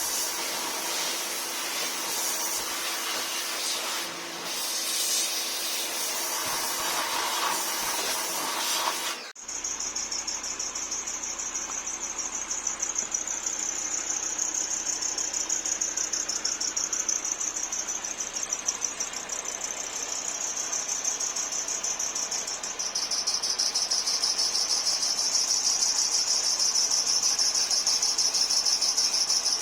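A steady hiss that cuts off suddenly about nine seconds in. Then crickets chirp steadily in a fast, high trill, louder near the end.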